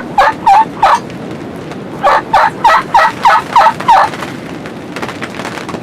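Wild turkey yelping loud and close: a short string of four yelps, then a run of seven more about a second later, each a sharp note spaced about three to a second.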